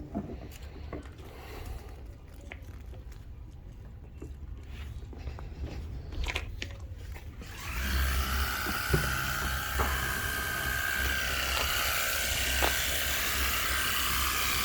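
Scattered light clicks and knocks. About eight seconds in, an electric motor starts and runs steadily with a high whine over a low hum and a hiss.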